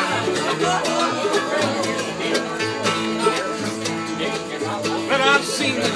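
A bluegrass string band playing live, an instrumental passage of plucked guitar and banjo over a steady bass line.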